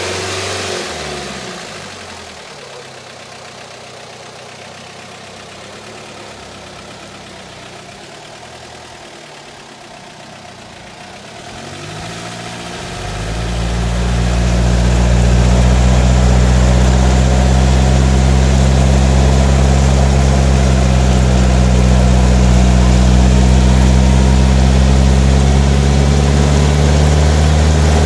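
1989 Mitsubishi Pajero's engine. Its revs fall away at the start and it runs quietly at idle. About twelve seconds in the revs climb and then hold steady and loud as the 4x4 pulls forward through deep mud under load.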